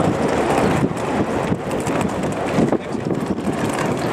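Wind buffeting the microphone, a rough, uneven rushing noise.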